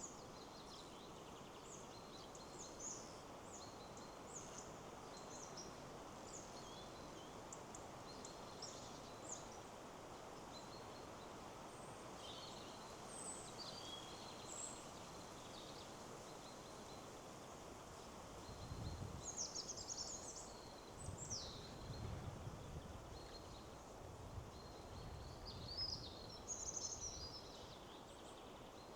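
Small songbirds chirping and trilling over a steady rustle of wind in the trees, with stronger gusts rumbling low through the second half.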